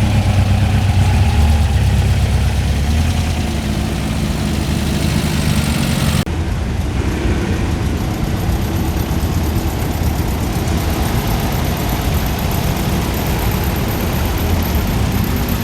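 A vehicle engine idling with a strong low rumble. About six seconds in, the sound cuts abruptly to a quieter, steady engine rumble with a faint high-pitched whine over it.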